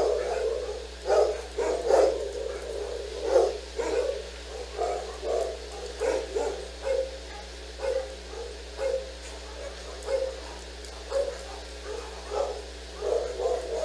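A dog barking over and over, irregular and loudest in the first few seconds, then settling into steady barks a little under two a second.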